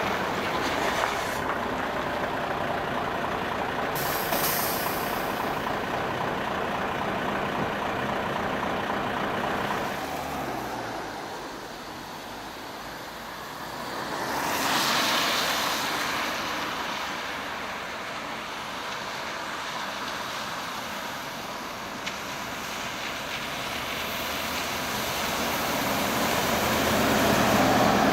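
Large diesel coach bus running and moving, with a short hiss of air about four seconds in. The sound dips briefly past the middle, swells again, and grows louder toward the end.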